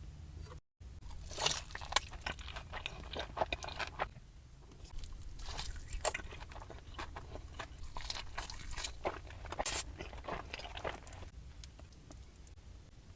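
Close-miked biting and crunchy chewing of crispy fried hot chicken, with many irregular crackling crunches and a faint steady low hum under them.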